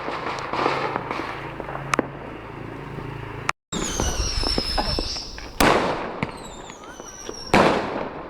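Fireworks going off: sharp bangs, three of them loud, over continuous crackling, with high whistles falling slowly in pitch in the second half.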